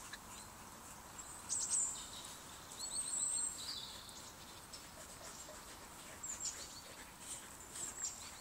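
Birds chirping: short, high calls in a few quick groups, loudest about a second and a half in and around three seconds in, with more near the end, over faint outdoor background noise.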